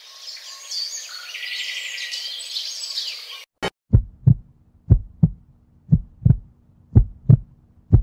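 Birds chirping, a busy run of quick high calls, which stops suddenly about three and a half seconds in. A heartbeat follows: paired low thumps, lub-dub, about one pair a second.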